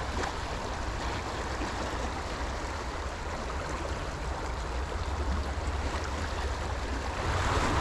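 River water rushing steadily over rocks, with low rumbling from the current.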